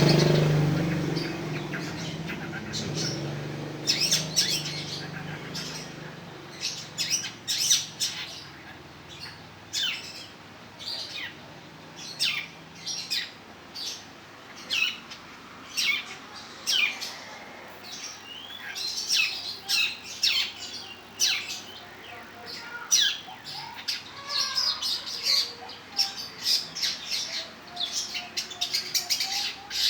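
Long-tailed shrike singing: a long run of short, sharp whistled notes, many of them quick downward sweeps, coming faster in the second half. A low rumble fades out over the first few seconds.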